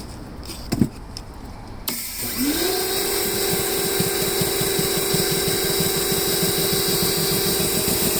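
Kärcher 1800 psi pressure washer starting up about two seconds in: its motor spins up with a quickly rising whine, then runs steadily with a fast pulsing from the pump, which means the surface cleaner is spraying again.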